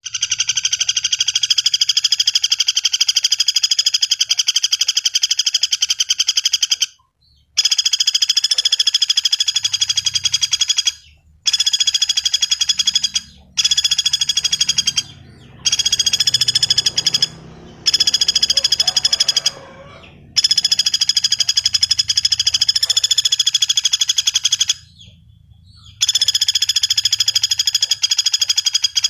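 Pelatuk bawang woodpecker calling: a series of long, rapid, high-pitched trilling rattles, each lasting a few seconds, separated by short pauses.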